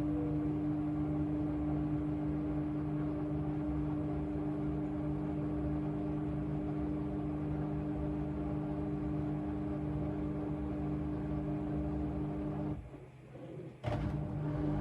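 AEG LR8FL160EX front-loading washing machine running with a steady mechanical hum. Near the end it drops away for about a second, then comes back with a click.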